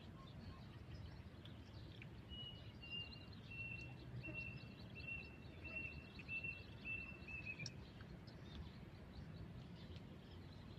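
A bird calling a steady series of about ten short, high whistled notes, a little under two a second, starting about two seconds in and stopping near eight seconds, over faint outdoor background noise.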